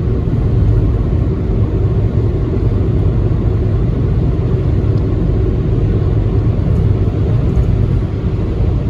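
Steady low rumble of a Toyota Corolla driving slowly, about 50 km/h, on a winter highway: engine and tyre noise heard inside the car.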